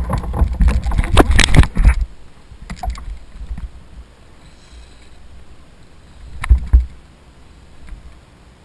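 Knocking and clattering on a fishing kayak: a dense run of loud knocks in the first two seconds, then quieter, and two loud thumps about six and a half seconds in.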